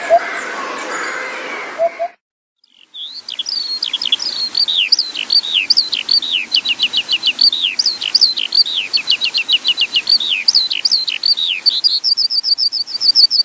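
A songbird singing a rapid series of high, downward-sliding whistled notes, with a fast trill of short notes near the end. The song starts about three seconds in, after a steady noisy background cuts off to a brief silence.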